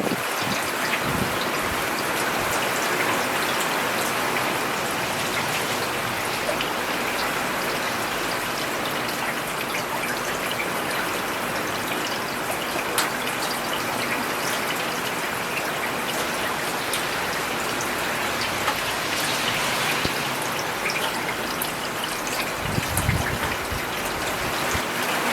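Steady rain falling on a road, with a dense patter of individual drops and water trickling. A brief low rumble comes near the end.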